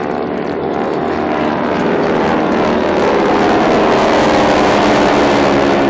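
A propeller airplane's engine passing by in flight, growing louder to a peak about four to five seconds in, its pitch shifting as it goes by.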